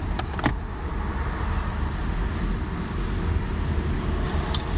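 Steady low rumble of road traffic, with a few small clicks of paper or sticker sheets being handled near the start and near the end.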